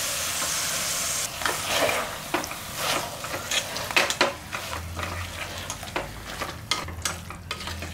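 Cleaned goat intestine pieces sizzling in hot oil and tomato-onion masala in a pressure cooker while a steel ladle stirs them. A steady sizzle fills the first second or so, then irregular scrapes and knocks of the ladle against the pot take over.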